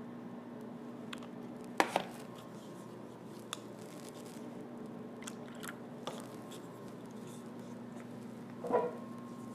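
Small handling sounds of painting work: scattered taps and clicks, the loudest a quick pair about two seconds in and a short clatter near the end, over a steady low hum.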